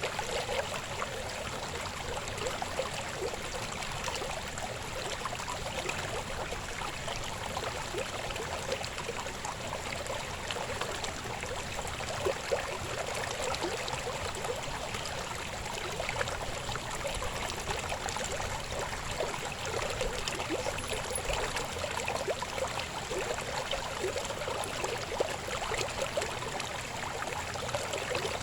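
Babbling river: a steady flow of water with many small splashes and gurgles.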